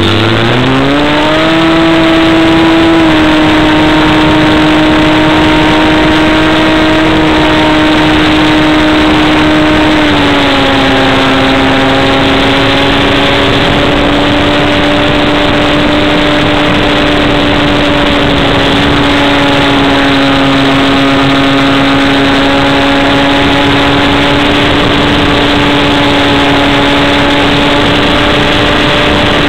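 Radio-controlled model plane's motor running loud and steady, rising quickly in pitch at the start, then dropping slightly in pitch about three seconds in and again about ten seconds in.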